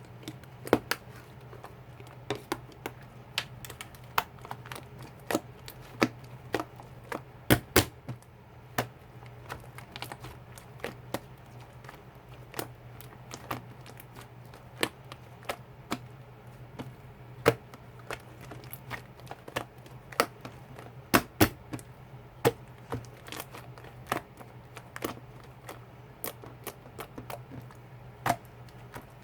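Slime being squished and pressed by hand, giving irregular sharp clicks and pops a few times a second, some louder than others, over a steady low hum.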